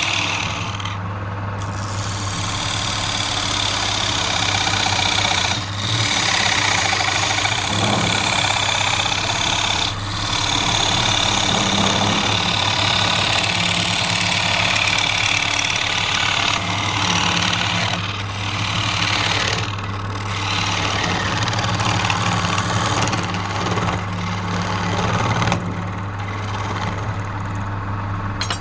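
Wood lathe running with a steady motor hum while a turning tool cuts the spinning wood, giving a loud hiss. The cutting stops briefly several times as the tool comes off the work.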